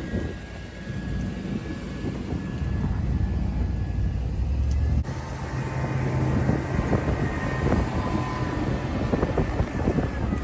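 Plow truck's engine running under load while plowing deep snow, heard from inside the cab: a steady low rumble with a faint whine above it. The sound changes abruptly about halfway through.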